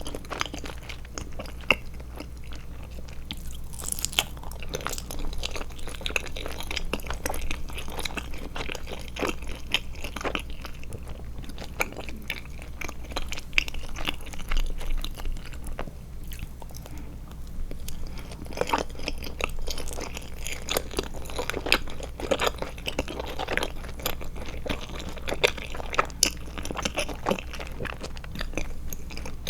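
Close-miked chewing and biting of Trolli Glotzer gummy eyeball candies, with many small irregular wet mouth clicks.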